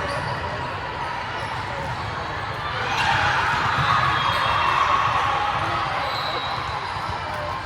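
Gym noise during an indoor volleyball match: the ball being played and voices around the court, with the voices swelling for a few seconds starting about three seconds in.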